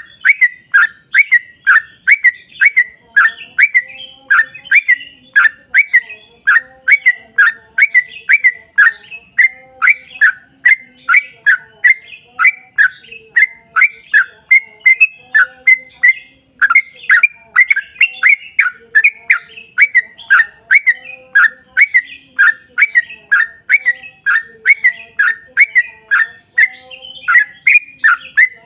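Yellow-vented bulbul (trucuk) singing a long unbroken run of quick, evenly spaced chattering notes, about two to three a second.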